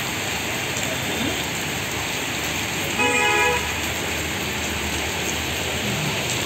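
Heavy rain pouring steadily onto a street, with a vehicle horn honking once for about half a second about three seconds in.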